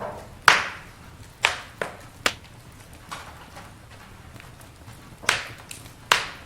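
Campfire crackling: burning wood snapping and popping in sharp, irregular cracks, about six loud ones and several smaller ticks, over a faint steady low background.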